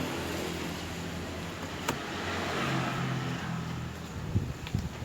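A motor vehicle's engine hum passing by, swelling and fading, with a sharp click about two seconds in.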